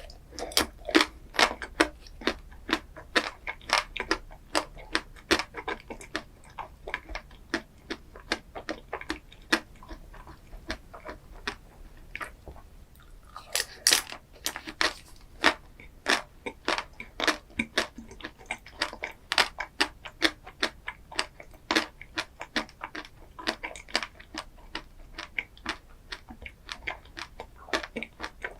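A person chewing a chocolate ice cream dessert, a steady run of sharp, crackly crunches, with a louder burst of crunching about fourteen seconds in.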